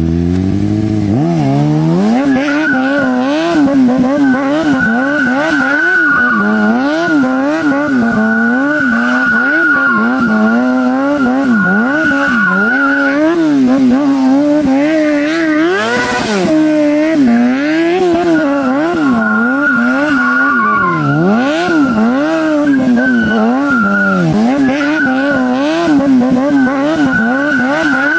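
Vehicle engine revving hard and being worked up and down in pitch about once a second, over a continuous high tyre squeal, as in a burnout or drift stunt. A single sharp crack comes about midway.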